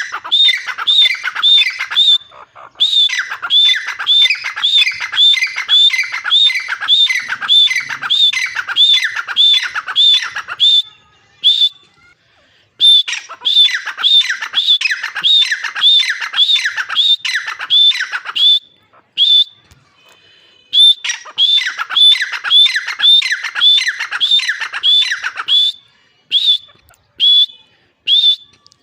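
Female grey francolin (teetar) calling: a rapid series of loud, sharp notes, each dropping in pitch, about two a second. The notes come in runs of several seconds broken by short pauses, with a few single notes near the end.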